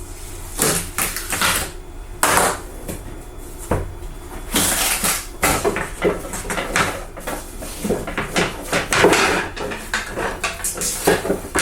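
Irregular clatter of knocks and scrapes, as of cut wooden pieces being handled and set down on a hard surface.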